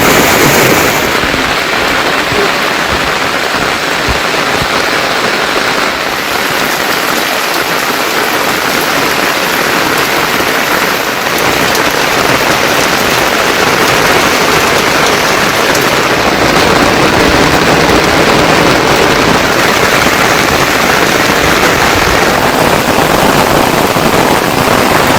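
Heavy monsoon rain falling steadily, a loud, dense hiss of rain.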